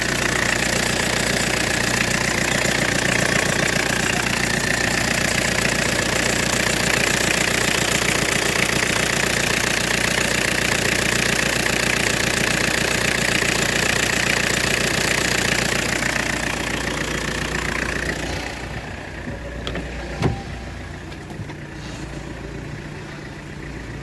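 Ford Mondeo 1.8 turbodiesel engine running with a loud, steady squeal from the power steering pump belt as the steering wheel is moved: the belt is slipping and needs replacing. The squeal dies away about 18 seconds in, leaving the diesel idling. A single sharp click comes a couple of seconds later.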